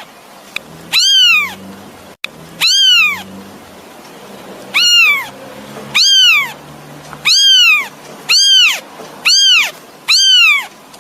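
A kitten meowing repeatedly for its mother: about eight shrill calls, each rising then falling in pitch, one every second or so.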